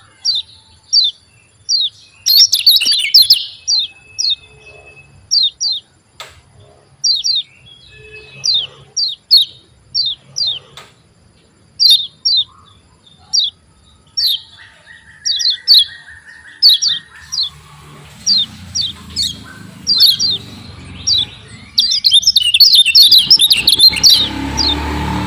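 Kecial kuning (yellow white-eye) calling a sharp, repeated 'ciak ciak', each note a quick high downward slur, about one or two a second, breaking twice into fast, dense chattering runs. A low rough noise rises underneath near the end.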